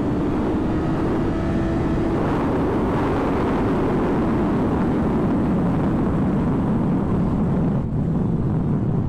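Motorcycle running at speed on the road: a steady engine tone under a loud, even rush of noise.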